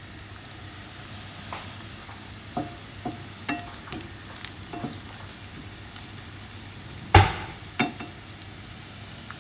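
Food sizzling steadily in a frying pan, stirred now and then: a utensil scrapes and taps against the pan, with a louder knock about seven seconds in.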